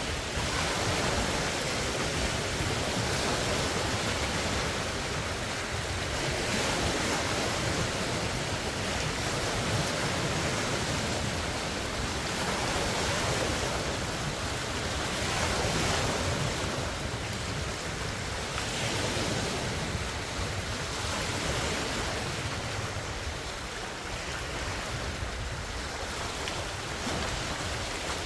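Large wind-driven lake waves washing and breaking against the shore, swelling and easing every few seconds, with strong wind buffeting the phone's microphone.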